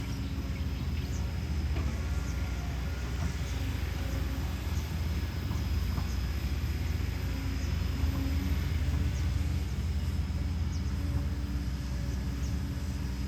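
Kobelco SK210LC excavator's Hino J05E-TG diesel engine running steadily, a little louder for a few seconds in the middle.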